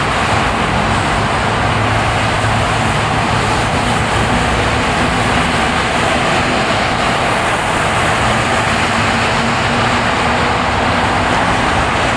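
A car driving on a winter road: steady tyre and road noise with a low engine hum underneath.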